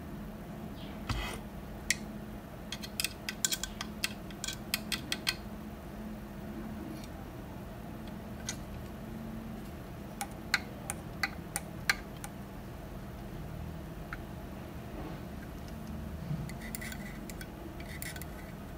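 Light clicks and taps of small tools and parts being handled on a workbench, in clusters about two to five seconds in and again about ten to twelve seconds in, over a steady low hum.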